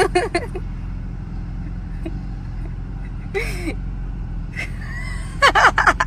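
Steady low vehicle rumble, with short wordless cries and gasps at the start, again about three and a half seconds in, and a louder burst of cries near the end.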